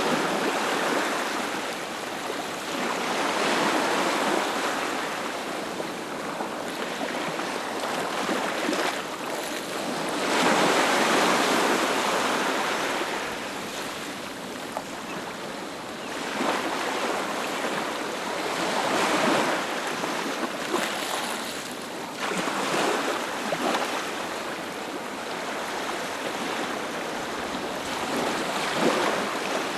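Ocean waves breaking on a beach, a steady wash of surf that swells and recedes every few seconds, with one larger surge about ten seconds in.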